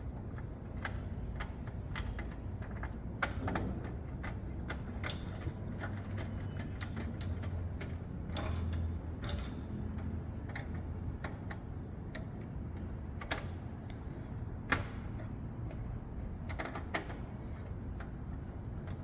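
Screwdriver driving the motherboard screws into a computer case: irregular small clicks and ticks of metal on metal, over a low steady hum.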